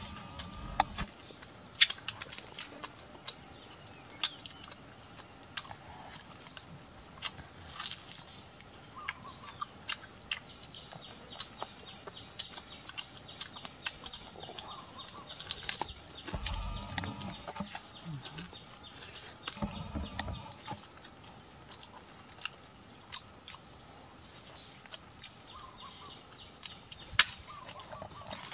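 Someone chewing and biting roasted duck meat off a bamboo skewer: scattered sharp crunches and mouth clicks, with a few soft low thuds, over a faint steady high hiss.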